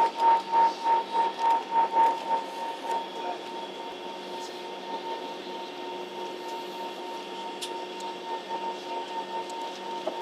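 Steady hum inside an airliner cabin waiting on the ground, with a constant whine over the drone. For the first two seconds or so the sound pulses rapidly, about three times a second, then settles into an even hum.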